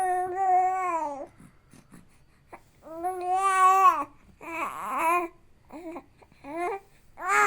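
Three-month-old baby boy cooing and babbling: a string of drawn-out, high-pitched vowel sounds, each about a second long, with short pauses between them.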